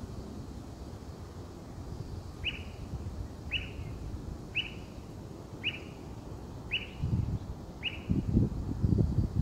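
A small bird chirping six times, short sharp falling notes about once a second. Under it, wind rumbles on the microphone, gusting louder near the end.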